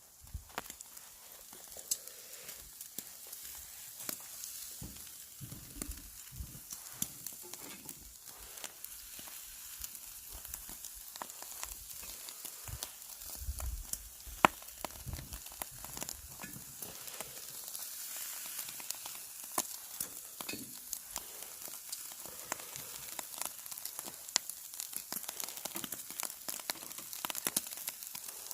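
Marinated pork bulgogi sizzling on a wire grill grate over charcoal: a steady hiss with many small crackles and pops.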